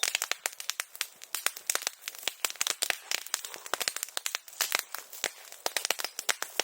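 Bonfire of brush and bamboo grass burning, crackling with many sharp irregular pops, several a second, like small firecrackers.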